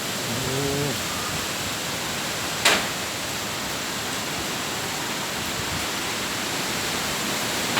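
Strong storm wind blowing steadily, without rain yet, with one sharp bang a little under three seconds in.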